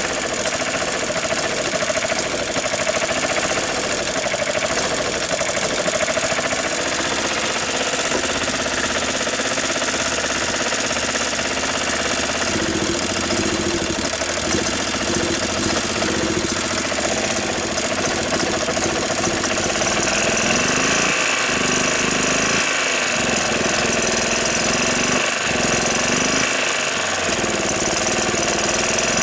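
Club Car golf cart's gas engine running steadily, freshly restarted after its plugged carburetor was cleaned and the old fuel changed.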